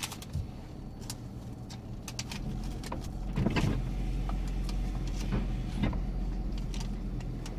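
Dodge Grand Caravan minivan idling and rolling slowly forward, heard from inside the cabin: a steady low hum with a deeper rumble that grows about two seconds in, and scattered light ticks.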